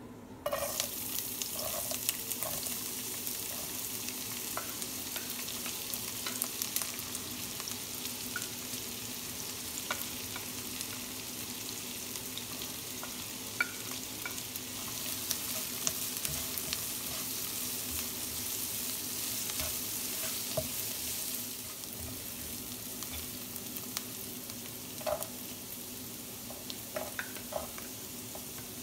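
Chopped onion, ginger and lemongrass frying in hot sesame oil in a non-stick wok: a steady sizzle that starts suddenly about half a second in as the onions hit the oil, easing a little near the end. Scattered clicks and knocks sound over it.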